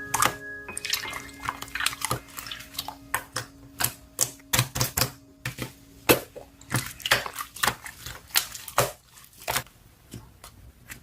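Irregular sharp clicks and taps, several a second, with a faint held note fading out about two-thirds of the way through.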